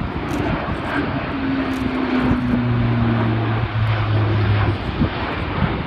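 Airbus A400M's four Europrop TP400 turboprop engines running at display power as the airlifter flies by. A loud roar carries a propeller hum that sags slightly in pitch, with a lower hum joining in the middle.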